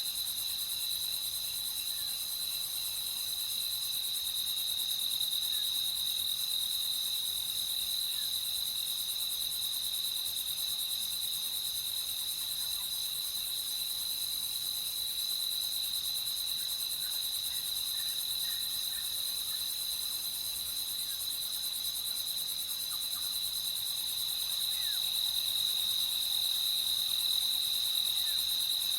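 A chorus of crickets chirping at night, a continuous high trill that holds steady, with a few faint short chirps beneath it.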